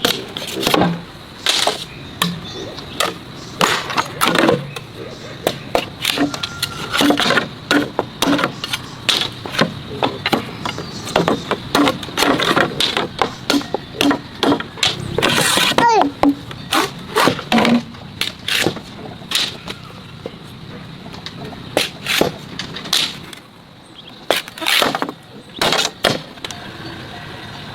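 Irregular knocks, clacks and rustling handling noise, several a second, with a few brief pitched sounds mixed in.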